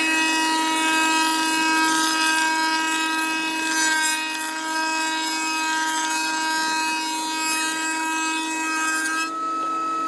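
Power tool cutting wood: a steady motor whine with the rasping noise of the cut, changing pitch slightly about nine seconds in.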